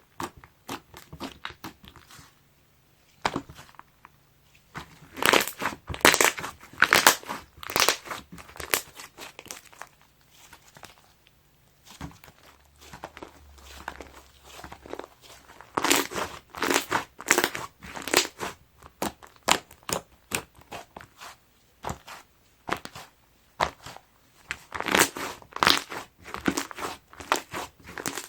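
Clay-mixed slime being squeezed and poked by hand, giving spells of crackling, crunching pops with quieter stretches between.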